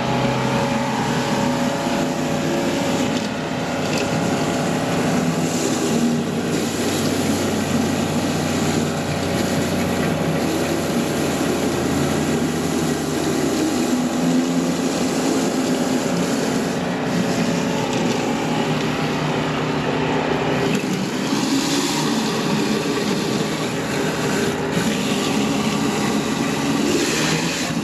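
Gas-engine pressure washer, a Stihl RB 400, running steadily under load while its high-pressure water jet hisses against concrete.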